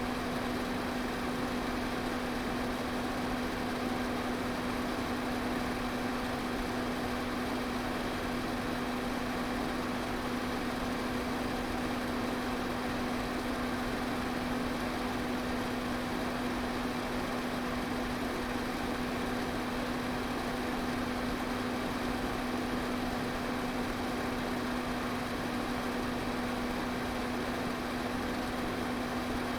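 Electric pedestal fan running steadily: a constant rush of moving air over a steady low motor hum.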